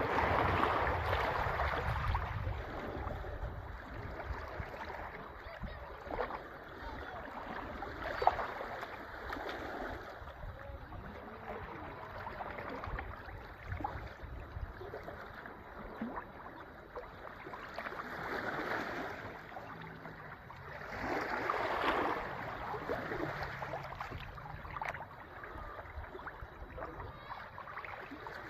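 Sea waves washing in and drawing back, the surf swelling and fading every several seconds, loudest at the start and again about three-quarters of the way through.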